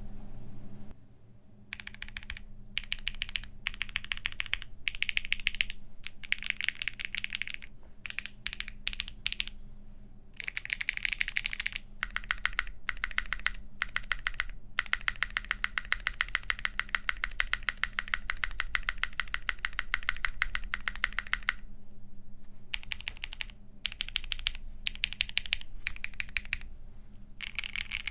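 Typing on a plateless, gasket-mounted Vega 65 custom mechanical keyboard with Botanical Creampaca switches (JWK Moss housing, Husky stem) and GMK Botanical keycaps. The keystrokes come in bursts with short pauses, including a long run of fast, unbroken typing in the middle.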